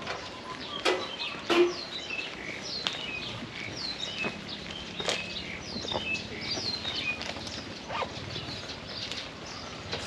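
Birds chirping: many short, quick, falling chirps. A few sharp knocks come about a second in and again around five seconds in.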